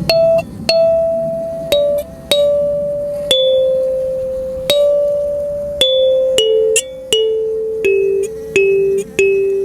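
Mahogany kalimba played solo in a slow melody: about a dozen single plucked tines, each ringing on into the next, the tune stepping mostly downward.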